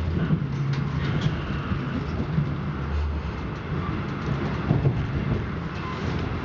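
Passenger train running along the track, heard from inside the carriage: a steady low rumble of the wheels and running gear, with a few light clicks and knocks.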